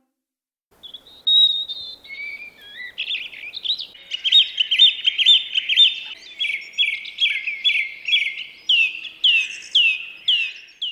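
A songbird singing, starting about a second in: a few high whistled notes, then a run of quick chirping phrases, then one falling note repeated about twice a second.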